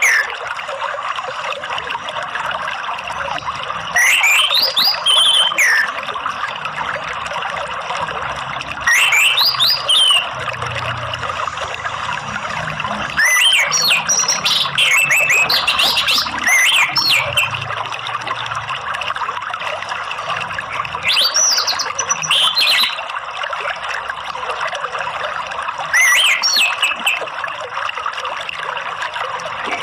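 Orange-headed thrush (anis merah) singing short whistled phrases that glide up and down, a few seconds apart, over a steady rush of running water.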